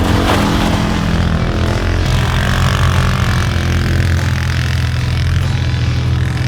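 Engine of an off-road vehicle such as a four-wheeler running steadily, its tone shifting about two seconds in.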